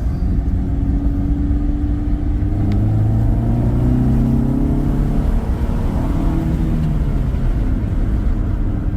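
1991 Honda Civic's four-cylinder engine accelerating on a test drive after a head gasket repair. Its pitch climbs for a few seconds, drops about five seconds in, then rises again and levels off.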